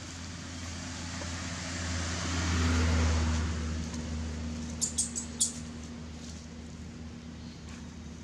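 A motor vehicle passing, its low engine hum and road noise swelling to a peak a few seconds in and then fading, followed about five seconds in by three short, high-pitched chirps.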